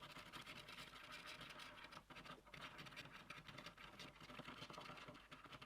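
Faint, irregular scratching and rustling of something being handled close to the microphone, made of many small scrapes and ticks.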